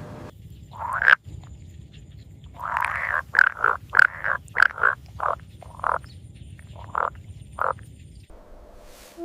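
An animal giving a series of short calls: one rising call about a second in, then about a dozen calls that come close together at first and then space out.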